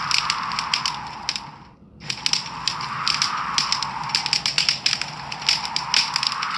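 Wood fire crackling in a fireplace: many sharp pops and snaps over a steady hiss. About a second and a half in it fades almost to nothing, then comes back half a second later.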